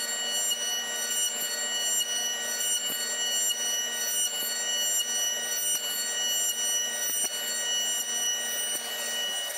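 Milling machine running steadily while cutting wood, a constant whine made of many fixed pitches over a rushing noise, pulsing slightly in loudness.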